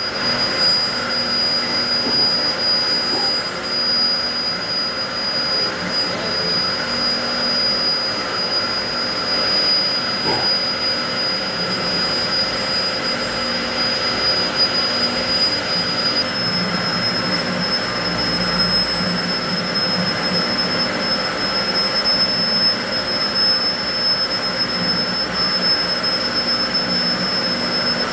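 Steady mechanical running noise with a constant high-pitched whine, which shifts slightly higher about halfway through.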